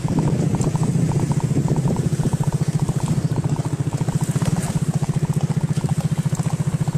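Motorbike engine running at a low, steady speed, its firing heard as an even putter of about ten beats a second.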